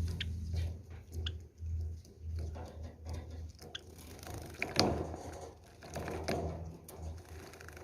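Java sparrows bathing in shallow water: irregular small splashes and wing-fluttering with scattered sharp ticks, the biggest splashes about five and six seconds in, over a low steady hum.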